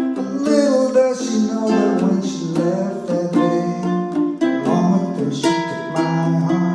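Ukuleles strumming the chords of a song in a steady rhythm.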